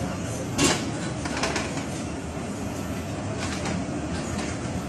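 Passenger train pulling out of the station, heard from one of its own coaches: a steady rumble of wheels on the track with sharp knocks as wheels cross rail joints. The loudest knock comes about half a second in, a double one follows about a second later, and fainter ones come near the end.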